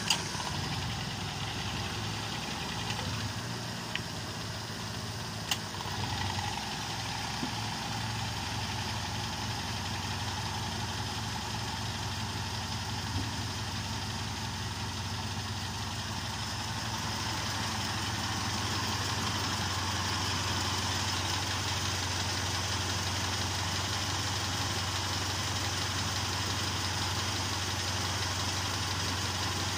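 Car petrol engine idling steadily with the hood open, a little louder from about halfway through. It is shown before repair of the fault the mechanic describes: idle RPM running high and the temperature gauge acting abnormally, which he puts down to the temperature sensor not detecting engine temperature.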